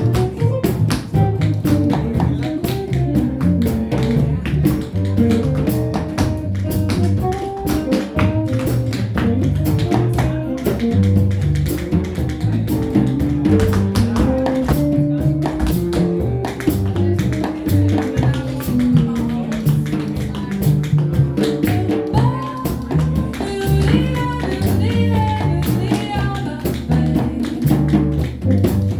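Tap dancers' shoes clicking in quick rhythms over a live jazz combo of guitar, double bass and drums.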